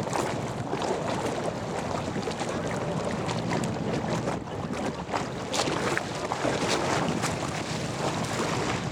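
Sightseeing cruise ship's engine running with a steady low hum, wind on the microphone over it.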